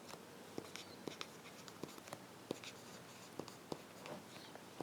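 Faint sounds of handwriting: light scratchy strokes and small irregular taps of a pen.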